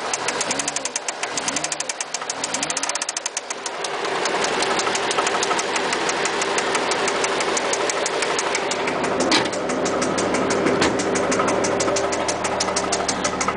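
Toyota 1JZ straight-six revved in three quick blips, then settling to a steady idle, with an even, rhythmic knock running through it that speeds up with the revs: rod knock from a worn connecting-rod bearing.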